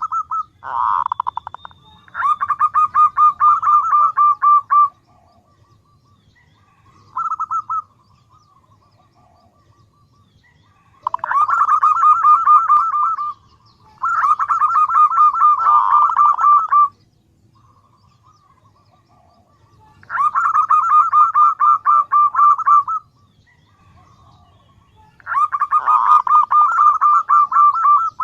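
Female zebra dove (perkutut) calling for a male. Runs of fast repeated cooing notes, each lasting two to three seconds, come about five times with pauses between, plus a couple of short phrases.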